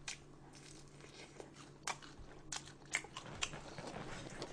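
Soft eating sounds: quiet chewing with a handful of short wet mouth clicks scattered through, over a faint low hum.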